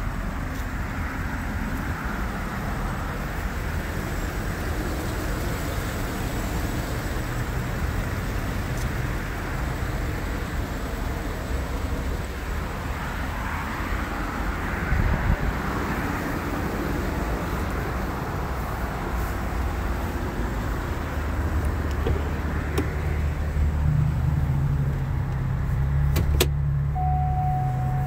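Steady low rumble of a vehicle engine running. Near the end, a sharp click as the car door is opened, followed by a steady single electronic tone.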